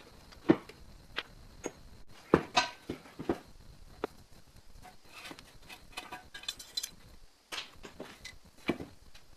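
Irregular knocks and clicks, about a dozen sharp hits spread unevenly, with a short rattling clatter a little before the end.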